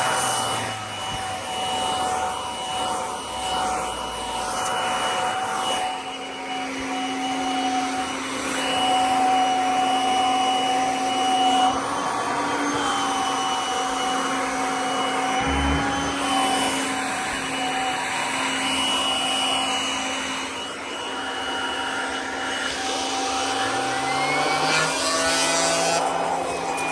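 Vacuum cleaner running steadily: a continuous motor whine with a few steady high tones, and some brief swoops in pitch near the end.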